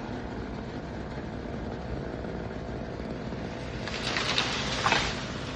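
Steady low engine rumble, with a brief rushing noise about four seconds in.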